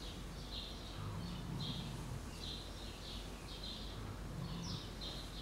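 Small birds chirping over and over, about two short, high chirps a second, over steady low background noise.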